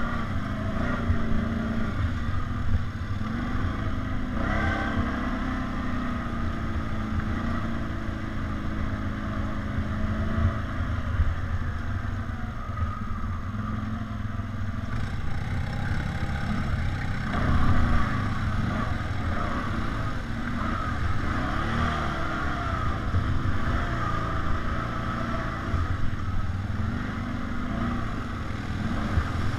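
ATV engine running under way, its pitch rising and falling as the throttle is opened and eased, over a steady low rumble of the ride.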